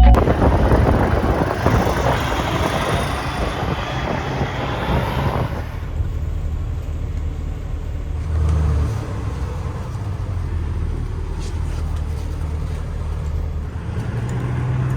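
Heavy diesel truck engine running steadily at a low idle-like hum, with a loud knock at the start and a loud hiss for the first five or so seconds that cuts off suddenly.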